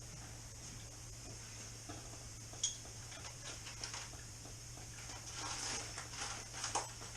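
Small metal hardware, such as bolts and tools, being handled: light clinks and rattles, one sharp clink about two and a half seconds in and a run of clinks near the end, over a steady low hum.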